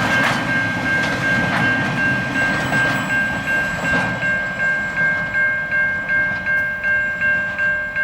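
A level crossing's warning bell rings in rapid pulses, about three a second, while a freight train's wagons rumble past with a few clicks of wheels over rail joints. The train noise fades about halfway through, leaving the bell ringing on its own.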